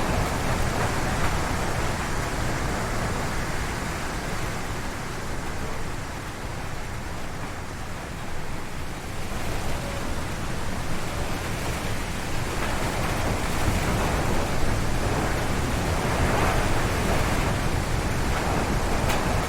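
Strong gusty wind howling through forest trees, dropping to a lull about a third of the way in, then gusting up again.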